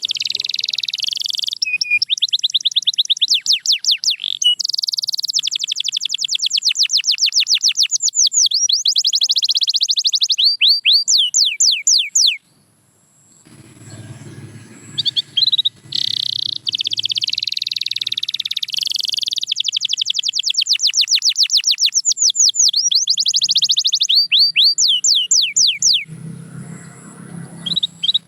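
Domestic canary singing a long song of fast, high trills and rolling tours, each phrase made of rapid repeated notes. It pauses for about two seconds near the middle, then starts again, and drops to a quieter low rumble shortly before the end.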